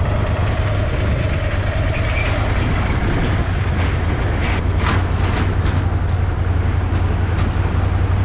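Ducati Scrambler's L-twin engine running at low speed under wind noise while the motorcycle crosses a bridge, with a few knocks and clatters from the deck under the tyres.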